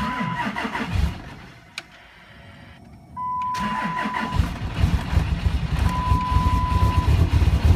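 2006 Dodge Ram 2500's 5.9-litre Cummins inline-six turbodiesel cold-starting at 1 °F with no grid heater and no block heater: a short crank, a pause, then it cranks again and catches about four seconds in, running with an uneven clatter. A steady dash chime beeps on and off.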